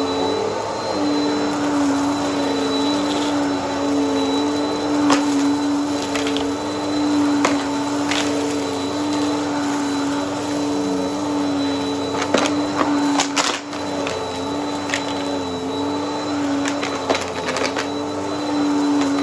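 Vacuum cleaner running steadily with a constant motor hum, picking up debris with scattered sharp clicks and crackles of crunchy bits hitting the brush roll and pickup.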